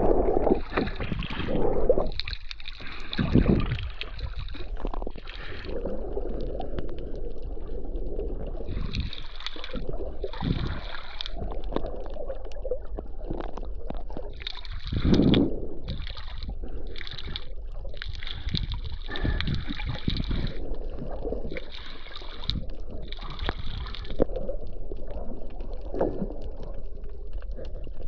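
Water sloshing and gurgling around a camera at and under the sea surface while snorkelling, coming in irregular surges over a steady low rumble.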